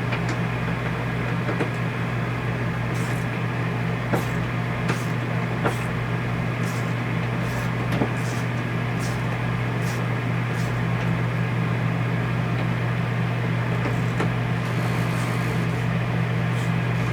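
RV rooftop air conditioner running with its shroud off, a steady fan and compressor hum, with scattered light clicks as two of its mounting bolts are loosened. The hum grows a little louder in the second half as the loosened unit goes out of balance and starts to vibrate.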